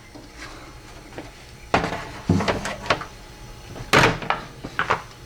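Metal and plastic parts of a car door's window regulator being handled and worked into place: a string of clicks and knocks, the loudest about four seconds in.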